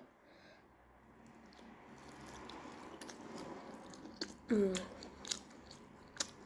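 A person chewing a mouthful of food, with faint wet mouth sounds and small clicks. About four and a half seconds in there is a short falling voiced sound from the throat.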